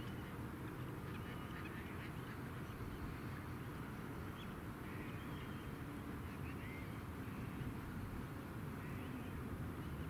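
Birds calling in short, scattered notes, with a steady low rumble underneath.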